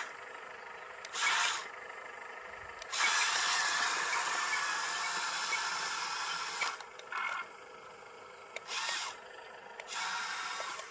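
Electric motors of a remote-control miniature excavator whirring as it works: a short burst about a second in, a long steady run from about three seconds to almost seven, then two more short bursts.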